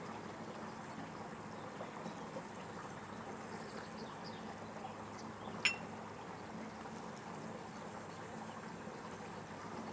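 Steady faint background noise with a low hum, broken once by a single sharp click a little past halfway.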